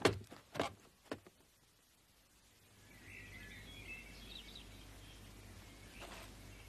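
A few sharp knocks in the first second or so, then birds chirping faintly for a couple of seconds over the steady hiss and hum of an old 1930s film soundtrack.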